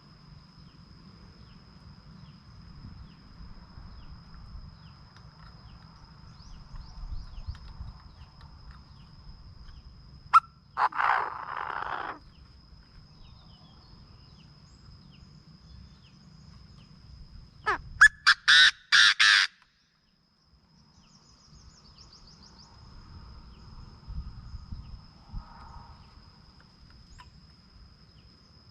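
Chinese francolin calling: one loud harsh call about eleven seconds in, then a quick series of several loud sharp notes at about eighteen seconds. A faint steady insect drone runs underneath.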